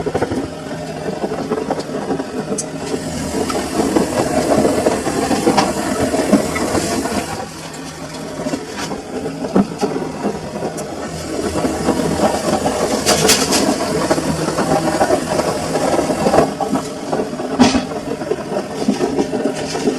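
Samsung washing machine running with a full load, a steady mechanical churning that swells and eases, with a few sharp rattling knocks in the second half.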